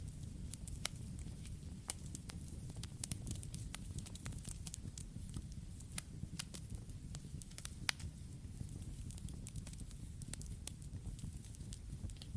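Campfire burning with a steady low rumble of flame and frequent irregular crackles and sharp pops of burning wood. Two of the pops stand out louder, about six and eight seconds in.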